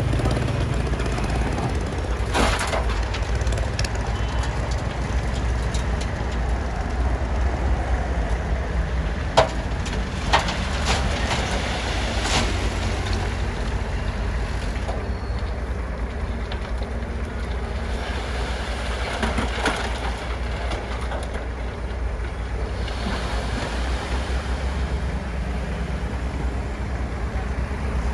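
Bulldozer's diesel engine running steadily under load, a constant low drone, with a few sharp metallic clanks in the first half.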